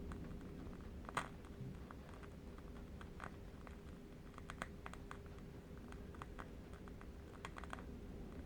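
Faint, irregular crackling clicks of a burning candle wick over a steady low wind rumble, with one louder pop about a second in.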